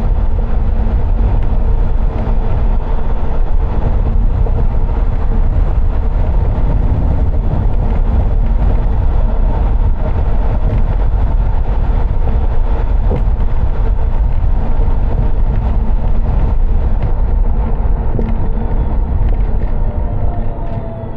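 Steady road and engine rumble of a car driving, with a constant low hum running through it; it eases off slightly near the end.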